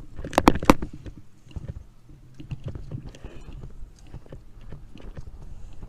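Clunks and rattles of a fixed-gear bicycle and its chest-mounted camera on the move: three sharp knocks close together about half a second in, then scattered clicks and rattling over a low rumble.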